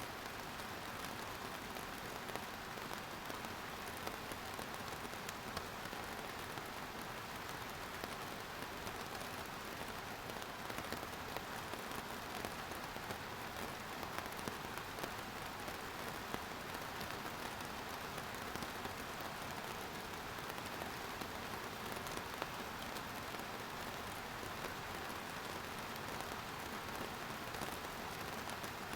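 Steady rain falling, with the patter of individual drops hitting a surface scattered through an even hiss.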